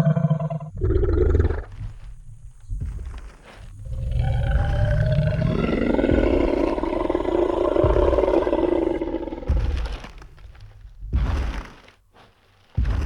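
Sound-effect T. rex: a long, deep dinosaur roar lasting about five seconds, with heavy low thuds of giant footsteps before and after it.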